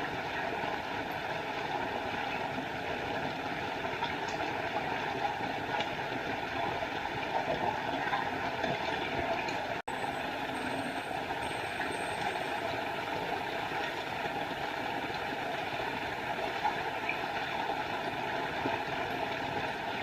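Small forest waterfall splashing steadily, a constant rush of falling water. The sound drops out for an instant about halfway through.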